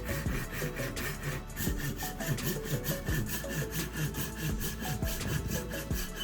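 Saw cutting through wood with quick, even strokes.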